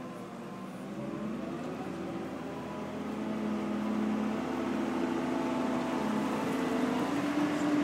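A heavy machine's engine running steadily, growing louder over the first few seconds, with a slowly shifting pitch.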